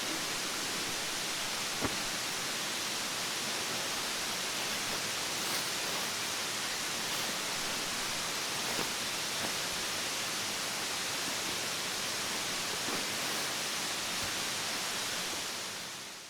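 Mountain stream rushing with a steady hiss of flowing water, with a few faint clicks over it; the sound fades out at the end.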